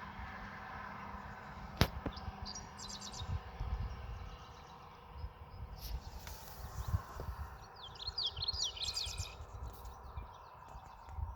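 Small birds chirping in quick high phrases, twice, over an uneven low rumbling noise. A single sharp click about two seconds in.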